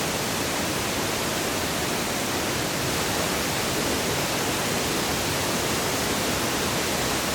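Waterfall rushing: a steady, even roar of falling water with no breaks or distinct events.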